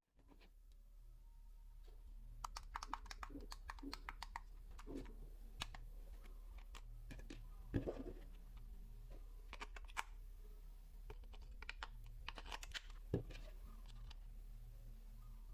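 Plastic toy parts and packaging being handled: runs of small clicks and crinkles, with a louder knock about eight seconds in and again about thirteen seconds in, over a steady low hum.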